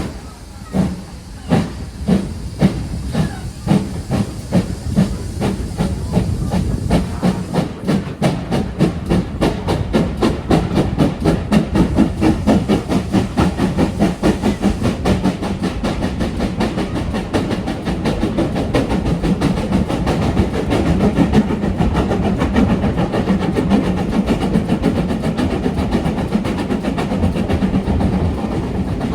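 Steam locomotive 5541, a GWR small prairie tank engine, pulling away with its exhaust beats. The beats start slow, about two a second, and quicken over the first ten seconds into fast, steady chuffing with hiss.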